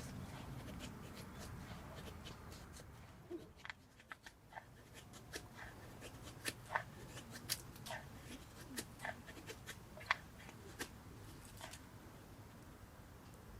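Irregular light clicks and ticks, a few dozen scattered over several seconds, over a faint low rumble.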